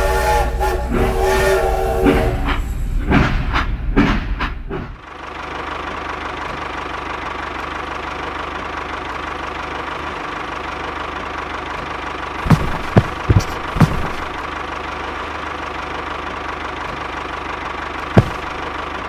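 A battery-powered toy steam train's electronic whistle and chugging sound effect for the first few seconds. After that, a small toy motor runs with a steady whir, broken by a few short clicks about two-thirds of the way through and once near the end.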